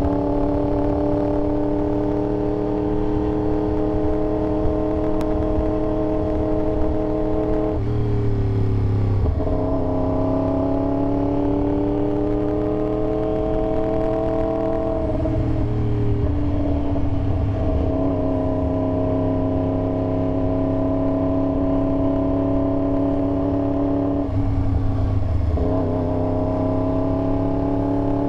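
Yamaha R1 sportbike's inline-four engine running under way. It holds a steady pitch for long stretches, with three brief drops in pitch and slow climbs after some of them as the throttle or gear changes.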